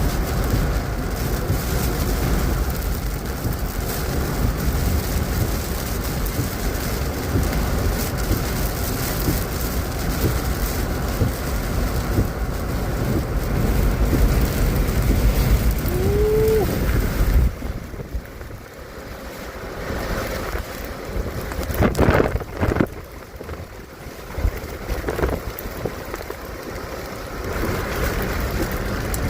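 Heavy rain and storm wind beating on a car, heard from inside the cabin with the windows up. The noise drops off sharply about two-thirds of the way through, and a few sharp knocks follow a few seconds later.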